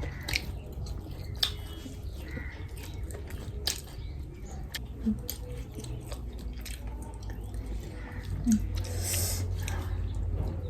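Close-up eating sounds: a person chewing a mouthful of food, with many sharp wet mouth clicks and smacks at irregular intervals.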